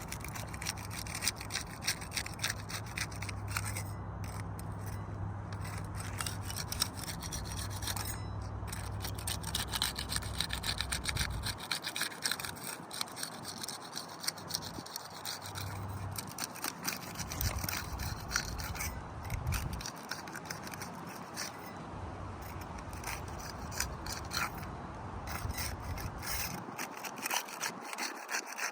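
Asphalt three-tab roof shingles being unsealed: a continuous scraping and crackling as the tabs' adhesive seal strips are broken loose from the shingles beneath. A steady low hum runs under it for about the first ten seconds.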